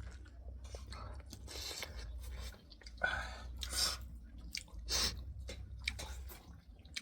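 A person chewing a mouthful of rice and curry close to the microphone: irregular wet smacks and soft crunches.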